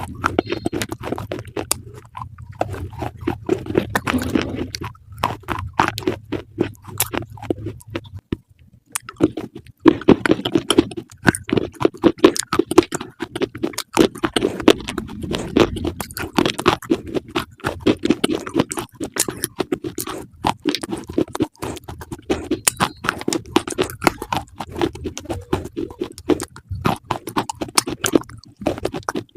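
Crunchy chewing: rapid crackling bites and chews with a short pause about eight seconds in.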